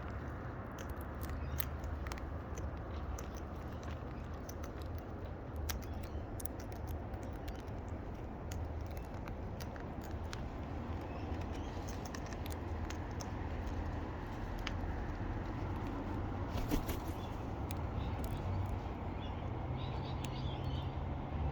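Wild parrots feeding: scattered small clicks and crunches of beaks working on fruit and seeds, with a few faint chirps near the end, over a steady low background hum.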